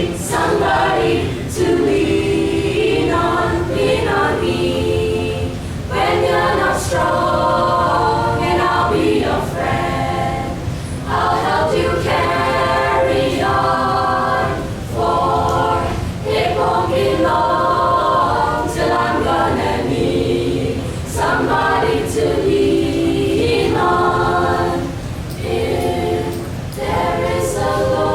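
A group of voices singing together in harmony, a cappella, in phrases a few seconds long with short breaks between them.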